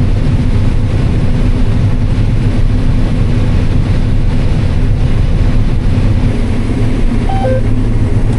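Combine harvester running steadily while harvesting corn, a constant low drone. Near the end a short two-note electronic beep sounds, first higher and then lower.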